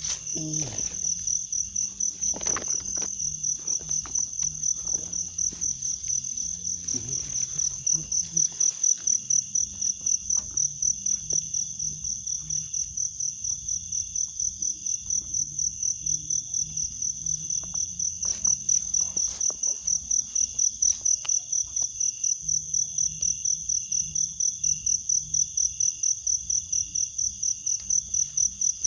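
Insects trilling in a steady, high-pitched, rapidly pulsing chorus. It is joined by scattered short knocks and splashy clicks, mostly in the first ten seconds.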